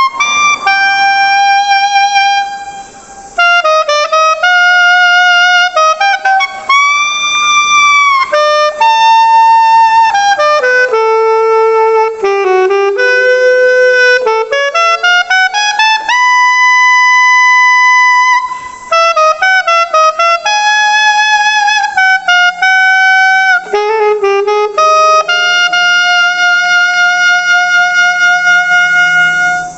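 Unaccompanied alto saxophone playing a single melodic line with a bright, punchy attack rather than a classical tone. It plays short runs, a held note that wavers, a slow upward glide into a held note, and a long held note near the end.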